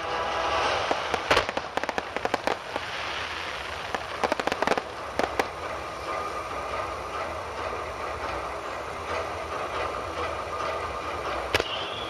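Fireworks display: shells bursting with sharp bangs and pops, thickest about a second in, again around four to five seconds in, and once more near the end, over a continuous crackle and hiss.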